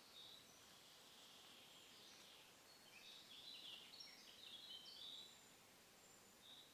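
Faint birdsong: a short high call note repeated every few seconds, with a quick jumble of high notes from about three to five seconds in.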